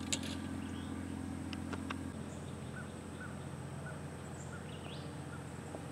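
Open-air ambience: a few faint, short bird chirps over a steady low hum that partly drops away about two seconds in. A sharp click comes right at the start, with a few faint ticks shortly after.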